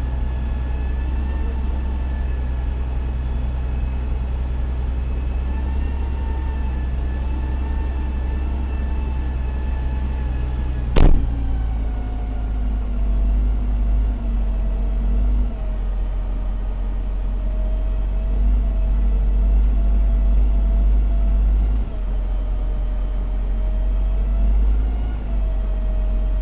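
Fire engine's diesel engine running steadily, heard from the dashcam inside the truck, with one sharp knock about eleven seconds in. After the knock the engine note drops a little and its level rises and falls.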